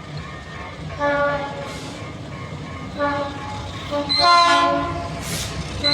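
Diesel locomotive horn sounding three blasts, the third the longest and loudest, over the running noise of a passing train.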